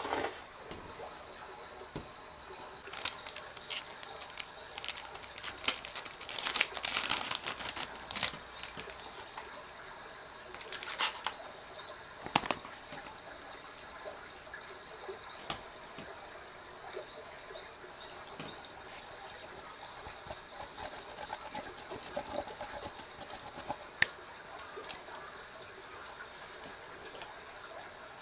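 Intermittent rustling with light clicks and taps as things are handled, busiest a few seconds in, with one sharp click near the end.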